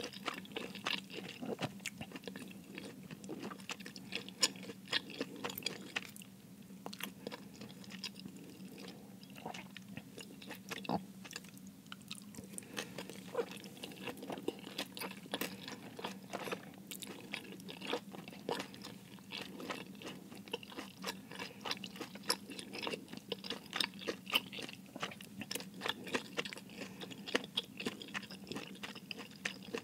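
Close-miked chewing of cheese-filled dumplings: a dense, irregular run of small sharp mouth clicks and squishes, with no pauses.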